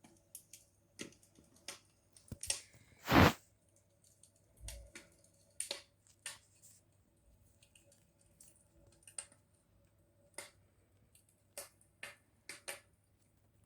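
Campfire crackling: burning wood giving irregular sharp pops and snaps, with one much louder pop about three seconds in.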